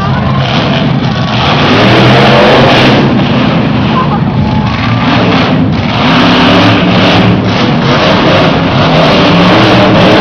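Monster truck engine running loud and rough, revving with its pitch rising and falling several times.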